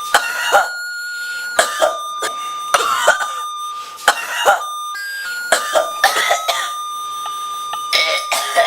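A person coughing hard in repeated fits, mostly two coughs at a time, over steady sustained high tones.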